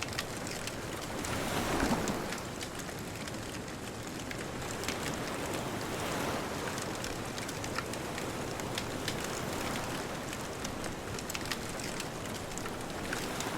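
Bonfire crackling, with frequent sharp pops over a steady hiss, and ocean waves washing in behind it: the loudest surges in about two seconds in, a softer one around six seconds.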